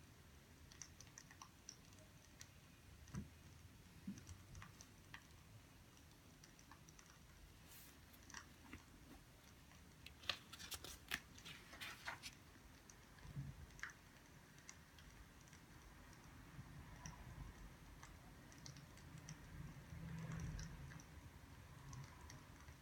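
Faint crackling of burning firewood: scattered small pops, with a brief run of louder snaps about ten seconds in.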